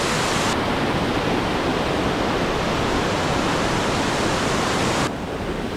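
Water pouring over a man-made waterfall weir, a steady loud rush of falling water. About five seconds in it turns quieter and duller.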